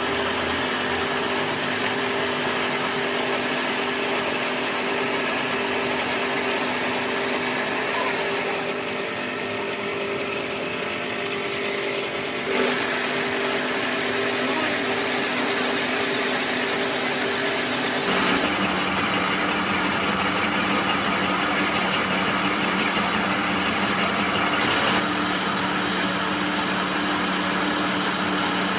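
A motor-driven machine running steadily with a constant hum. A single sharp knock comes about twelve seconds in. About eighteen seconds in, the hum drops to a lower pitch and the sound gets slightly louder and busier.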